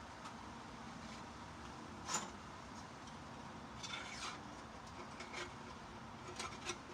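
Sparse light clicks and clinks over a steady background noise, the loudest about two seconds in and a few small clusters later, as of metal fluorescent light housings being handled and sorted.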